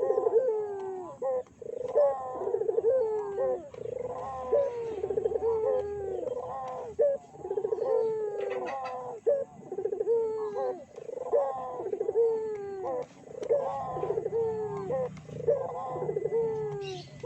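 Puter (Barbary dove) cooing in a steady run of repeated, downward-falling coos about once a second, the calls overlapping one another.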